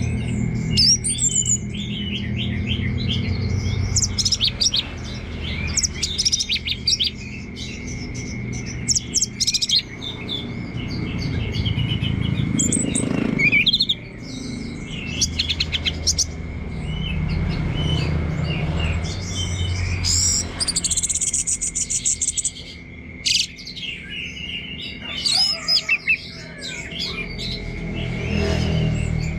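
Orange-headed thrush singing a long run of quick, varied high phrases with short breaks between them, over a steady high tone and a low hum.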